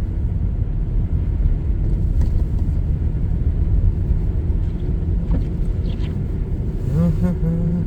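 Car driving on a city road, heard from inside the cabin: a steady low rumble of engine and road noise.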